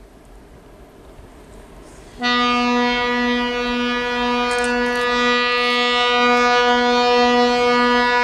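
Train horn sounding one long steady blast of about six seconds, starting about two seconds in.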